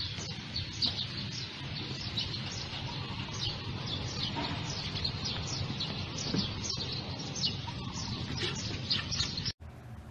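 Small birds chirping rapidly, several short high chirps a second, over a steady low outdoor hum; it cuts off suddenly near the end.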